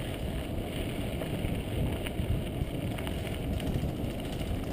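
Mountain bike rolling over a dirt singletrack trail: a steady low rumble of the tyres on the ground, with scattered small clicks and rattles.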